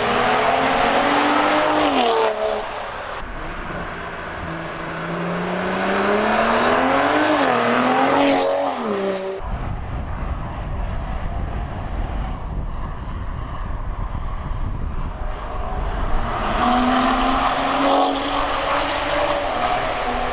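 BMW M340i's turbocharged straight-six running through a full Fi valved exhaust with a 200-cell downpipe. For the first nine seconds or so it is driven hard, its pitch rising and falling through revs. It then cuts abruptly to a deep, low exhaust rumble, and a steadier engine note returns near the end.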